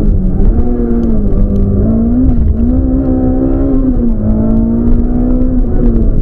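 Rally car's engine working hard, heard from inside the cabin at speed, its pitch rising and dipping several times as the revs climb and fall between throttle lifts and gear changes.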